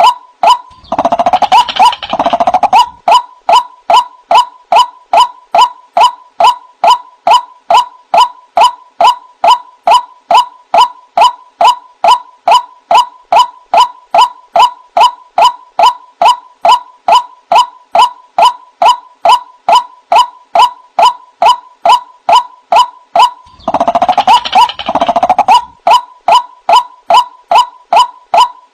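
White-breasted waterhen (ruak-ruak) calling: a steady run of short, rhythmic notes, about three a second. A louder, harsher burst of calls comes about a second in and again near the end. This is a bird-trap lure call recording.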